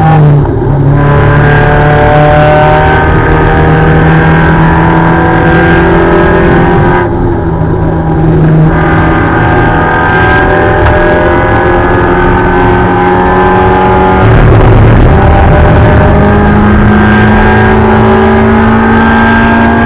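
Spec Miata race car's four-cylinder engine running hard under load, its pitch climbing slowly through each gear. There are sharp drops at the gear changes near the start, about halfway through and right at the end.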